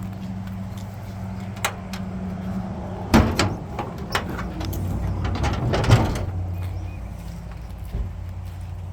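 Metal clanks and knocks from the hood of a 1953 GMC truck being unlatched and swung open to expose the engine. The loudest clunks come a little past three seconds in and again around six seconds, over a steady low hum.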